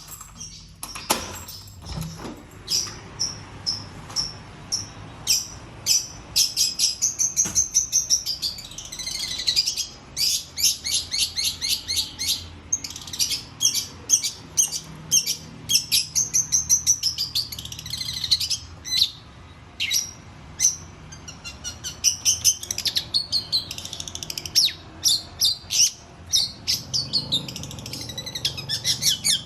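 Long-tailed shrike (cendet) singing a fast, varied run of high chirps and trills with only brief pauses.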